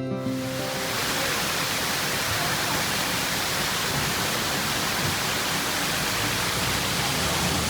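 Steady rush of falling water, a waterfall or cascade, even and unbroken.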